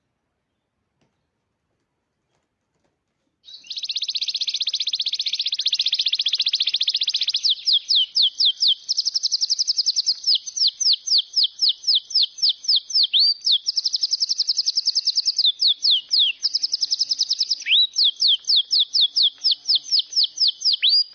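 A songbird singing loudly and close up, starting suddenly after a few seconds of silence: a long, high, dry trill, then rapid repeated downward-sweeping chirps several times a second, broken by more trills.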